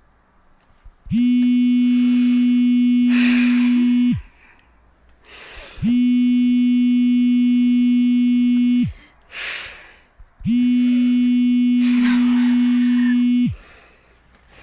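Phone ringing with a call: a steady electronic buzzing tone, three times, each about three seconds long with a short pause between.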